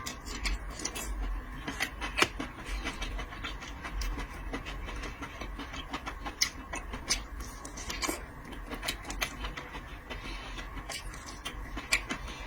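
Close-up eating sounds: irregular wet clicks and smacks of chewing shellfish, over a faint steady hum.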